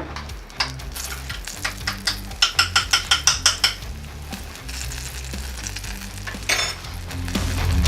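Flour-dredged snipe frying in hot avocado oil in a saucepan, sizzling steadily, with a quick run of about ten taps a couple of seconds in and a louder surge of sizzle near the end.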